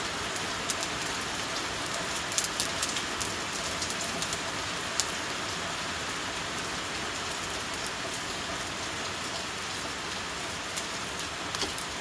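Heavy rain falling steadily, with sharp drip ticks scattered through it, thickest around two to three seconds in.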